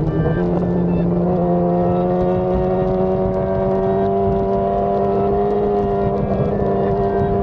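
BMW S1000RR inline-four engine running at a steady highway cruise, its pitch stepping up slightly about a second and a half in and then holding nearly level, over a low rush of road and wind noise.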